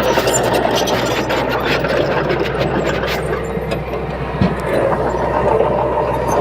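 Bulldozer engine running steadily under work, with short clanks and one sharp thump about four and a half seconds in.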